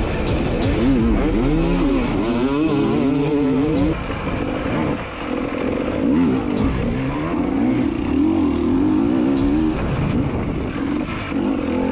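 Dirt bike engine revving up and down in quick, repeated swells.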